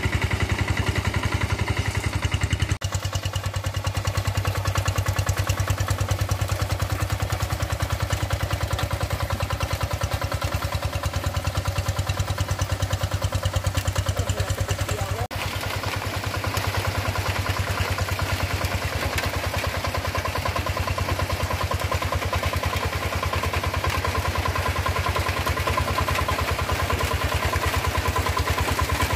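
Rice-field tractor engine running steadily at work, with two brief breaks, about three seconds in and about halfway through.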